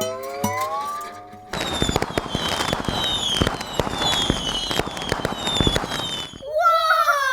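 Cartoon fireworks sound effect: dense crackling and popping with repeated falling whistles, after an opening rising slide tone. Near the end a falling pitched call begins.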